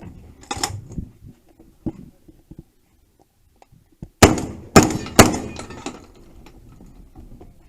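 Three gunshots about half a second apart, each followed by a short ringing decay, after a few lighter knocks and clatters.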